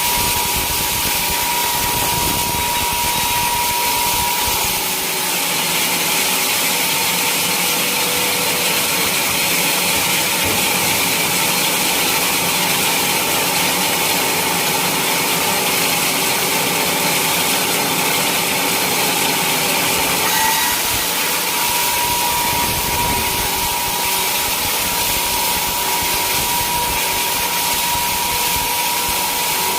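Sawmill saw and its motor running steadily, with a high hiss and a steady whine. A deeper rumble drops away about five seconds in and comes back about twenty seconds in.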